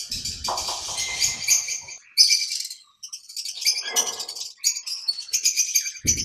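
A flock of small pet parrots in an aviary chirping and chattering, a rapid run of many short, high calls overlapping one another.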